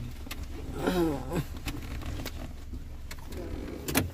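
Car engine idling, a steady low hum heard from inside the cabin, with a few light clicks and a sharper click near the end, just before the hum drops away.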